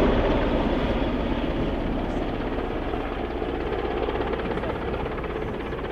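Aircraft engine and propeller noise from a low pass, fading steadily as the aircraft moves away.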